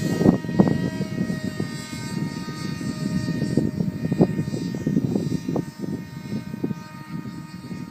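Foam RC Eurofighter Typhoon model flying, its motor giving a steady high whine, with wind gusting and buffeting the microphone.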